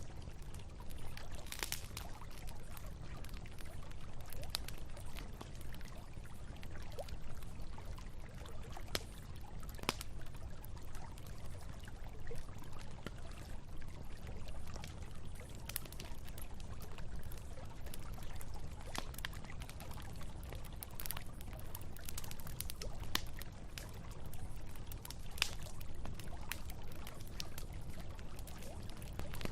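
Wood campfire crackling with irregular sharp pops, over the steady low rush of a flowing river.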